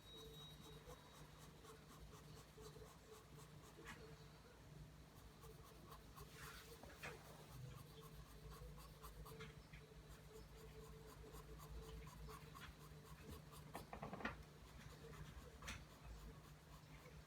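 Pencil drawing lines on paper: faint, repeated scratching strokes, with a few louder strokes, the loudest about fourteen seconds in.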